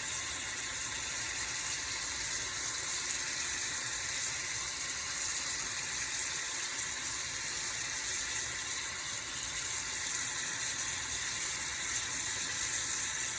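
Salmon in an orange sauce sizzling steadily in a pan on high heat as the added water reduces: an even, high hiss with no breaks.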